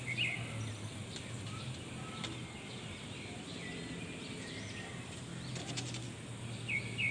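Short high bird chirps in small quick groups, just after the start and again near the end, over a steady low outdoor hum.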